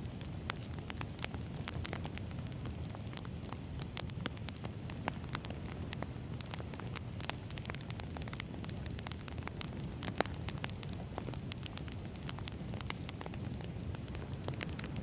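Wood fire burning, a steady low rumble with irregular sharp crackles and pops of the burning logs.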